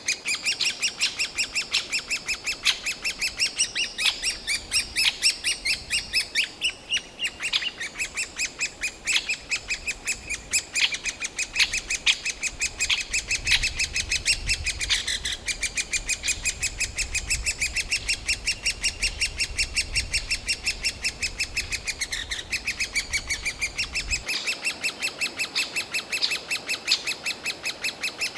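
Great spotted woodpecker nestlings calling from the nest hole: a steady, rapid stream of short, shrill begging calls, several a second, that urges the parents to bring food.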